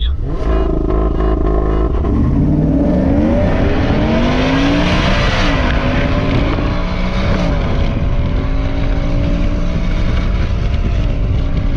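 Ford F-150's 5.0 V8 with headers and intake at full throttle: held at steady revs for about two seconds, then pulling up through the gears with the pitch dropping back at each upshift.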